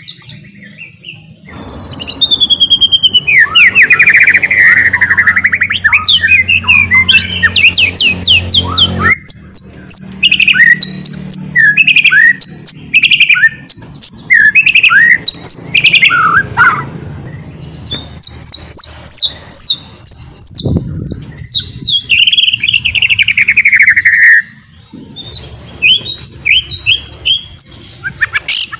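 White-rumped shama (murai batu) singing a long, varied song of rapid twittering chatter, the 'ngeriwik' style, full of fast trills and sweeping whistled glides. It breaks off briefly about a second in and again a few seconds before the end.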